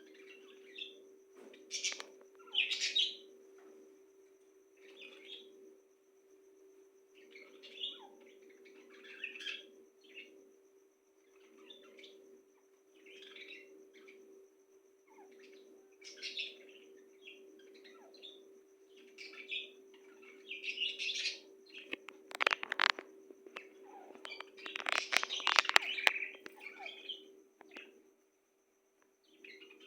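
Birds chirping in short, scattered calls, growing louder and busier about two-thirds of the way through, over a steady low hum.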